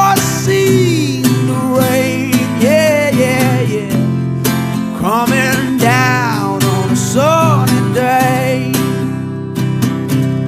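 Music: a man singing a folk-rock song over a strummed acoustic guitar, in several sung phrases with vibrato on the held notes.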